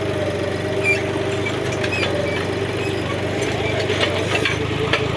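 John Deere 5310 tractor's three-cylinder diesel engine running steadily while powering a KEB backhoe digger attachment, with scattered short knocks through the run.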